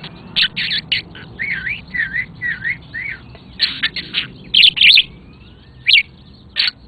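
Pet budgie chirping and warbling: a string of sharp, loud chirps, with a run of four wavering, up-and-down notes about a second and a half in.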